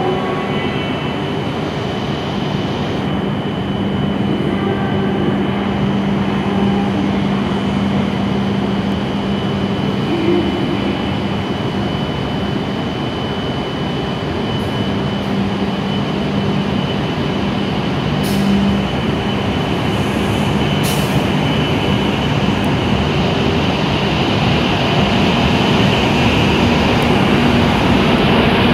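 W7 series Shinkansen train at the platform, a steady hum with a constant low tone and a faint high whine, growing gradually louder over the last few seconds as the train pulls away.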